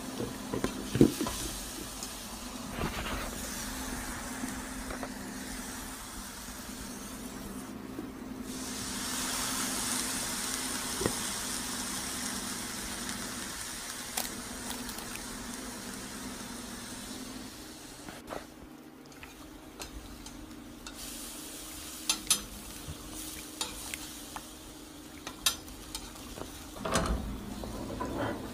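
Food frying in hot oil in a pan: a steady sizzle, with scattered clicks and knocks of a cooking utensil against the pan, more of them near the end.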